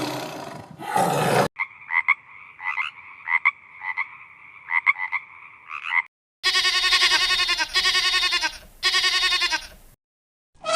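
The tail of an animal roar ends about a second and a half in. Frogs croaking follow, a steady pulsing chorus with repeated clicks. After a short gap, an animal bleats three times, each call about a second long with a wavering pitch.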